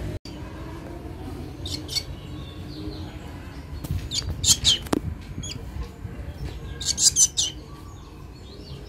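A pet black bird giving bursts of high, sharp chirps, three times a couple of seconds apart, as it begs for food. A single click comes about five seconds in.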